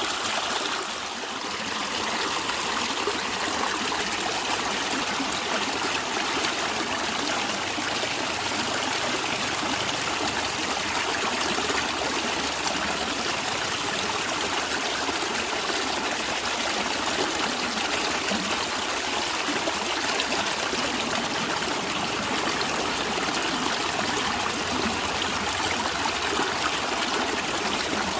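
Natural running water gurgling with a steady, even rush, dipping slightly in loudness about a second in.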